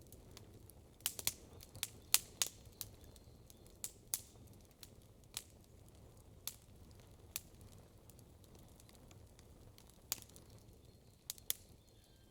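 Campfire wood crackling: sharp pops come in a quick cluster in the first three seconds, then as scattered single pops, over a faint low steady rumble.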